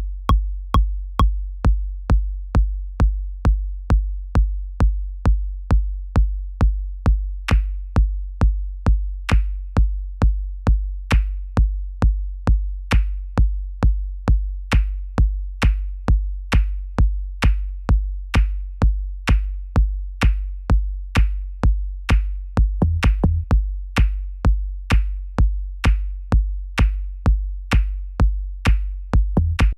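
Techno drum-machine beat programmed with Ableton Live 10's stock devices: a steady looping kick drum about two hits a second. From about seven seconds in, a higher, noisier hit joins on every fourth kick. About three quarters of the way through, the kick pattern briefly breaks up into quicker hits.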